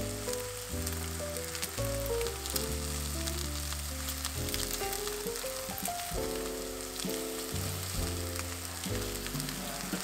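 Food sizzling in pans on the stove, including a thin layer of egg frying in a square omelette pan, with steady crackling and ticks. Melodic background music with a bass line plays throughout.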